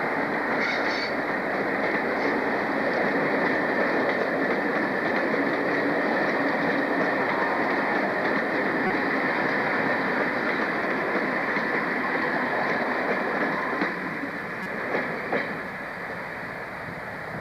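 A train running along the track, loud and steady, then the noise drops away about 14 seconds in, with a couple of sharp clicks soon after.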